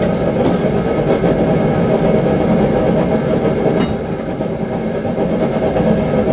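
Forge running with a steady rushing hiss, with a single short click a little under four seconds in.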